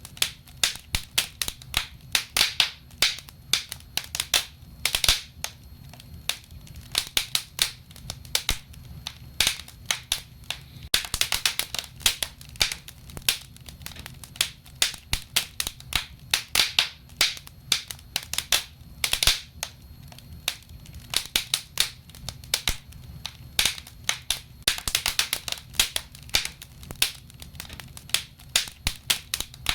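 Wood fire burning in a fireplace, crackling and popping irregularly, with a steady low rumble underneath.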